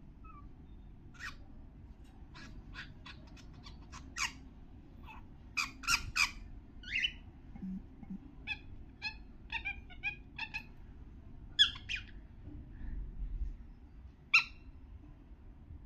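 Cockatiel calling: a scattered series of short, sharp chirps and squawks, with a few louder squawks about six, eleven and fourteen seconds in.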